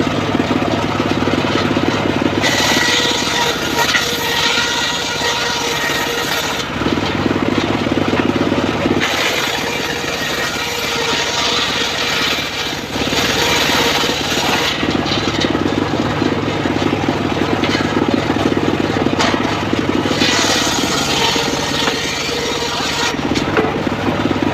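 Engine-driven homemade circular sawmill running steadily, its blade cutting into teak wood three times for about four to six seconds each, each cut adding a harsh, high-pitched rasp over the engine's drone.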